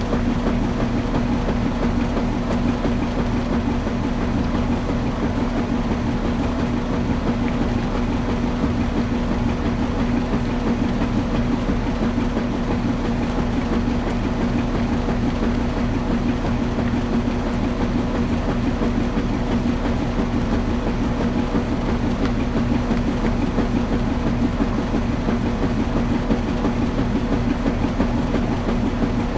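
Washing machine running with a steady motor hum over a constant churning rumble, unchanging throughout.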